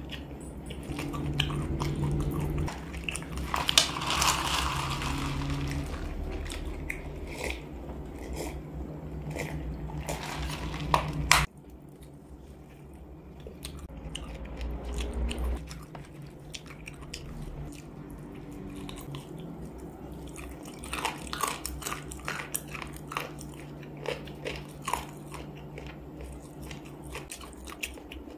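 Close-up chewing and biting on spicy chicken feet, with many short crunches and mouth clicks. The sound cuts abruptly about halfway through and carries on more quietly.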